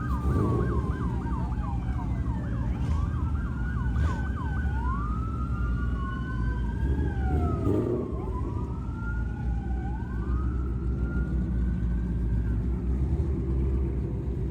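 Two emergency-vehicle sirens sounding at once with slow rising and falling wails, one switching to a rapid yelp at the start and again about three seconds in. Underneath is a steady low rumble of car engines.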